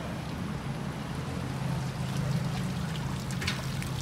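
Bentley Continental GT driving slowly past, its engine a low steady hum that grows louder about halfway through as the car goes by, over a haze of street noise.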